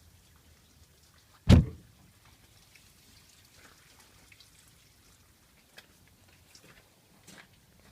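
A single heavy thump about a second and a half in, then a few faint clicks and taps.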